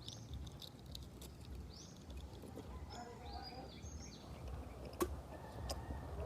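Small birds chirping now and then over a low background rumble, with one sharp click about five seconds in.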